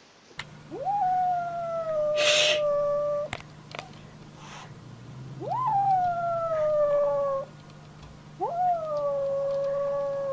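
A dog howling three long howls, each rising quickly in pitch and then held with a slow slight downward slide. A brief hiss of noise comes about two seconds in.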